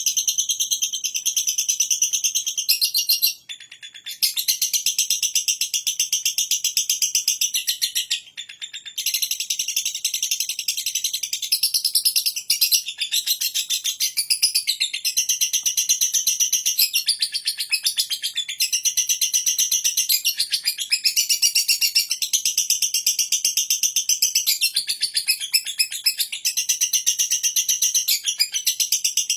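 Lovebird singing a long ngekek: a rapid, high-pitched, continuous chattering trill, broken only by two brief pauses, one a few seconds in and one about eight seconds in.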